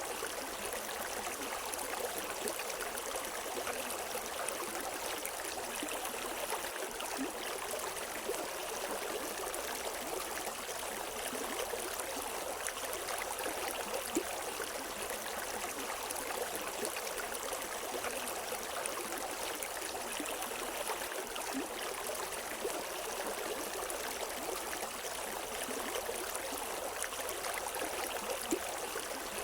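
River water flowing over rocks: a steady rushing and splashing with small gurgles, without birdsong.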